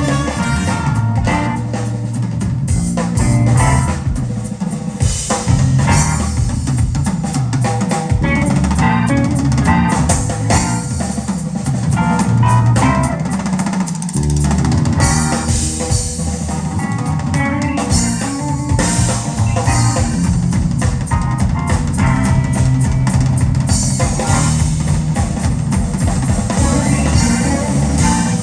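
Live rock band playing an instrumental passage with no singing: a drum kit with rimshots and bass drum drives it, with guitar over the top.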